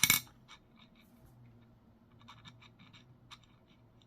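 A brief loud scrape at the very start, then scattered light clicks of a computer keyboard and mouse, bunched together a little past the middle.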